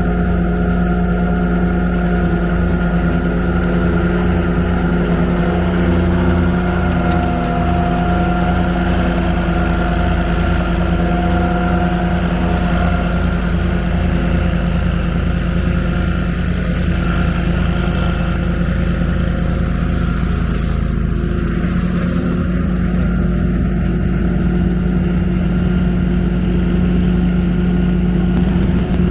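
Walker riding mower's engine running steadily as it mows and vacuums up grass and leaves.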